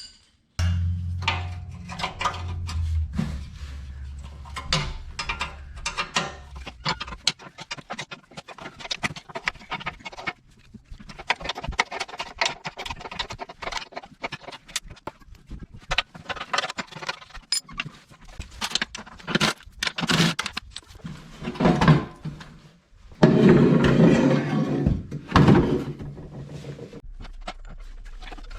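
Hand tools at work on bolts: wrenches and loose metal parts clinking and knocking in an irregular string, with two louder, denser stretches of rattling near the end.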